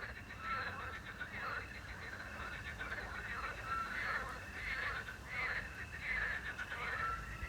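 A chorus of frogs croaking, over the steady trill of crickets. A small owl gives a short whistled note three times, about every three seconds.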